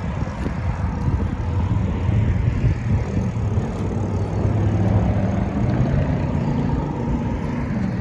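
Steady engine drone with a low humming note that grows a little stronger after the middle, over a rumble of wind on the microphone.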